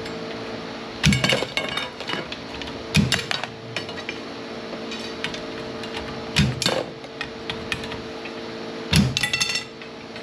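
Scrap copper and brass pieces clanking and clinking together as they are handled and dropped, in four bursts a few seconds apart.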